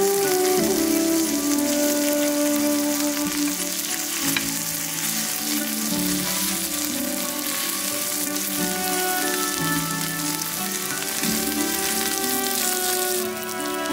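Fish sizzling as it fries in oil in a shallow pan, a steady hiss, with a spatula moving the pieces. Soft background music with long held notes plays underneath.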